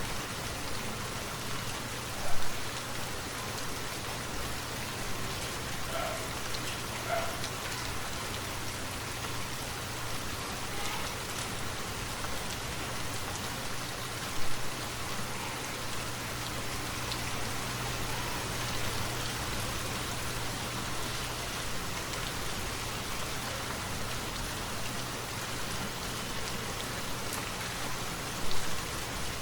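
Steady rain falling on a forest, an even hiss of rainfall with drops hitting surfaces, and three brief louder taps spread through it.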